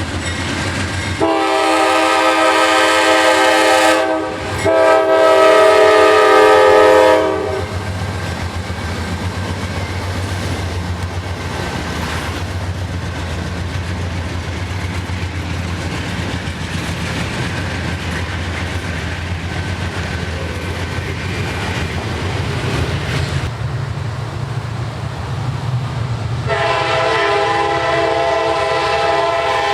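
Diesel freight locomotive horn sounding a multi-note chord in two long blasts, followed by the steady low rumble of the passing train. The horn sounds again in a long blast near the end.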